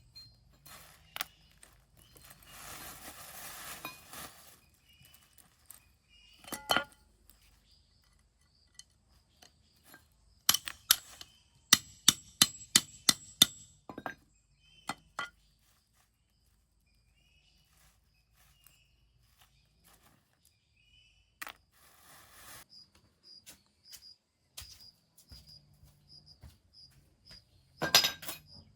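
Construction work with hand tools and materials: scattered knocks and clinks, with a run of about eight sharp strikes in quick succession near the middle, like hammer blows, a short scraping or rustling stretch early on, and a loud clatter near the end.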